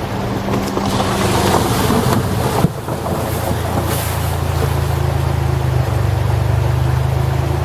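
A steady low engine drone under rushing wind noise, with a brief sharp dip about two and a half seconds in, after which the drone is stronger.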